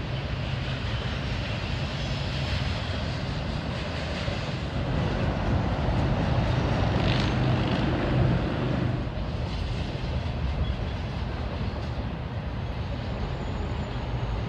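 Double-stack intermodal container train rolling past: the steady rumble and rattle of freight cars on the rails, swelling a little about halfway through.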